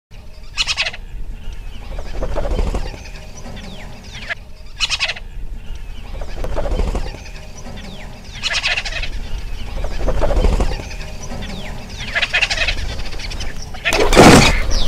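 Fowl calling: a short rattling call about every four seconds, with lower clucking calls between, and the loudest call near the end.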